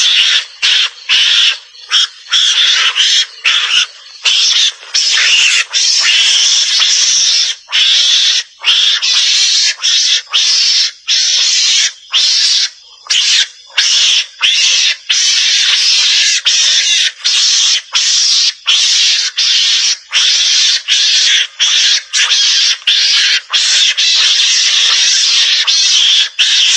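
Mongoose (garangan) lure call: harsh, noisy calls, nearly continuous and broken by short gaps about every half second to a second.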